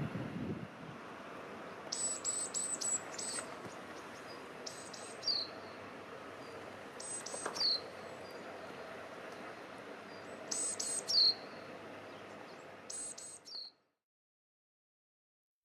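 A small bird calling repeatedly in short groups of three or four high chirps, each group ending in a falling note, a few seconds apart over faint outdoor background hiss; the sound cuts off near the end.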